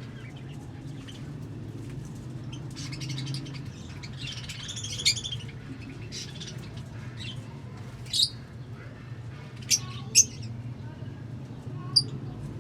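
Pet lovebirds chirping and squawking: a run of rapid chatter about four seconds in, then several short, sharp single calls, over a steady low hum.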